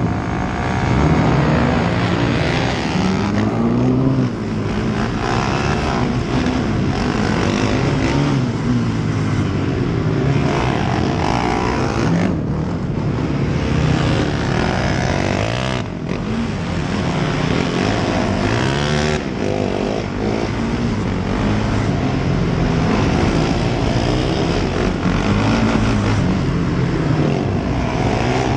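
Racing engines revving, the pitch rising and falling again and again, loud throughout.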